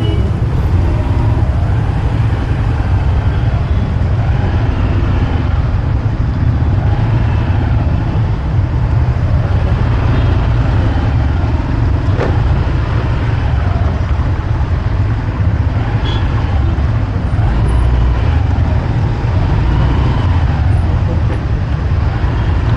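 Road traffic heard from a moving bike: a steady, heavy low rumble with the engines of surrounding vehicles rising and falling in pitch.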